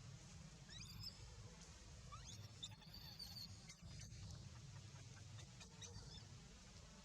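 Faint, high-pitched crying squeaks of a baby monkey: a handful of short calls, each rising in pitch, spread a second or so apart over a steady low rumble.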